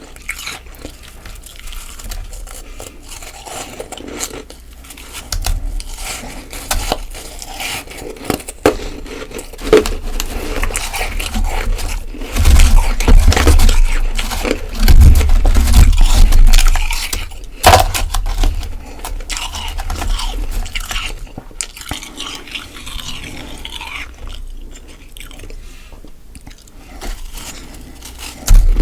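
Close-miked biting and chewing of soft freezer frost in big mouthfuls, a dense irregular crunching. The loudest, heaviest crunching comes about halfway through.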